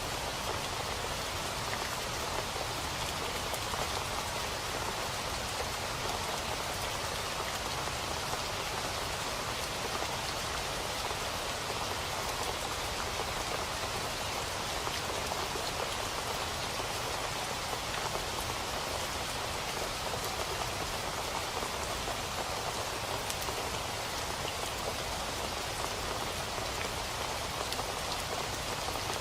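Steady rain falling on a surface: an even hiss with many fine drop patters. Its level does not change.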